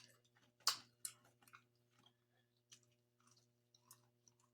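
A person chewing food close to the microphone, with faint wet mouth clicks and smacks, the sharpest about a second in.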